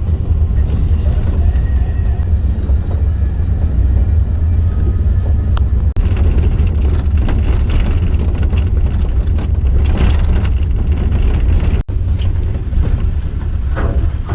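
Steady low rumble of a moving vehicle, heard from inside it, broken by a few abrupt cuts.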